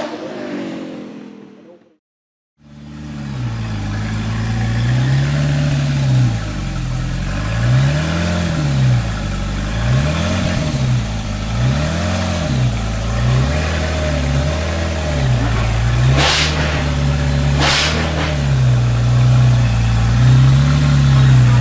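Zenvo TSR-S's 5.8-litre twin-supercharged V8 idling with a run of light throttle blips, each a short rise and fall in pitch, with two sharp cracks about a second and a half apart late on. It opens with the car driving off, fading away within two seconds.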